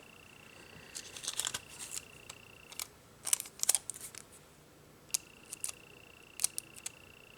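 Nail-stamping tools being worked: quick scrapes and small clicks as stamping polish is scraped across a metal stamping plate and picked up with a stamper. They come in three short clusters of ticks and scrapes.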